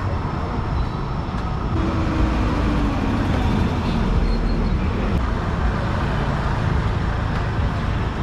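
Road traffic noise: a steady engine rumble and tyre hiss, with one engine note falling in pitch about two seconds in.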